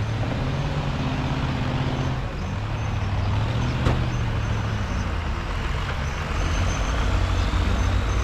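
Heavy off-road race truck's diesel engine running under load, revving up and easing off in waves, with a sharp knock about four seconds in.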